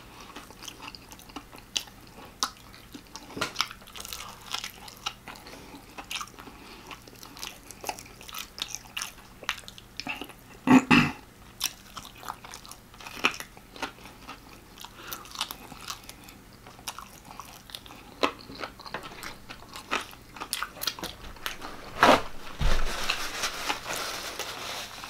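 Biting and chewing of extra-crispy fried chicken: irregular crunches and wet mouth clicks, with a louder bite about 11 seconds in. Near the end, a paper napkin rustles as greasy hands are wiped.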